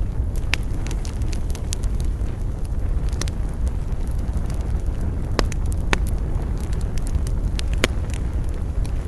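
Wood fire crackling, with a steady low rumble of flames and frequent sharp pops and snaps, a few of them louder.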